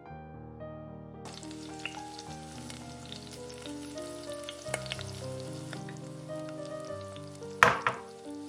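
Food sizzling as it fries in oil in a pan, the hiss starting about a second in, with one sharp knock near the end. Soft background music plays throughout.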